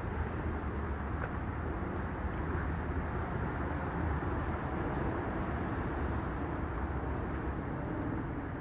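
Steady outdoor rumble of road traffic, with faint light ticks over it.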